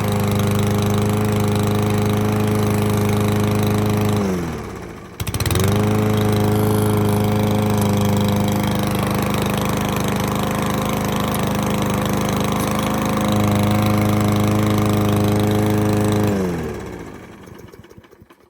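Remington self-propelled lawnmower's 140cc Powermore overhead-valve engine running steadily under the blade. About four seconds in it slows and dips, then runs again at full speed. Near the end it winds down in pitch and stops as it is shut off.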